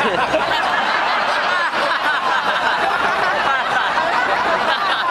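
A huge crowd of many thousands laughing together on cue, a dense, steady wash of overlapping voices.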